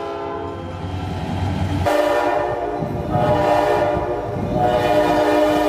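Train horn sounding a chord of several steady tones, coming in loud about two seconds in and holding, over the low rumble of a passing train.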